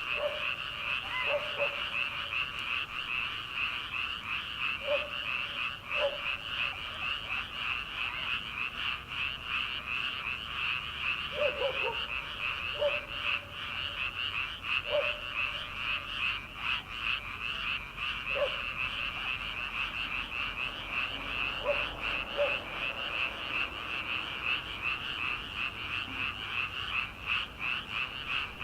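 Dense chorus of paddy-field frogs: many overlapping, rapidly pulsed croaks calling without a break, with a few short lower-pitched calls scattered through it.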